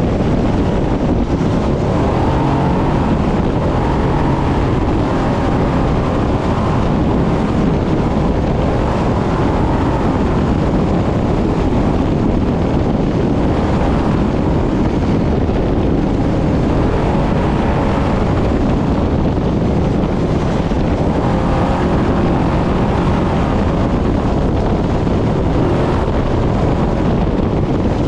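Brenthel class 6100 trophy truck's V8 engine running hard at speed across desert terrain: a loud, steady, dense engine and drivetrain noise mixed with wind and road noise.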